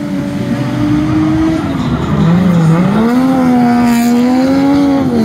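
Drift car's engine held at high revs through a slide on a wet track; the revs drop off about two seconds in, then climb back up and hold.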